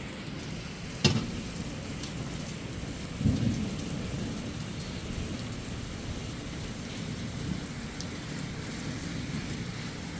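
Steady rain falling, with a sharp tap about a second in and a short low thump a little after three seconds.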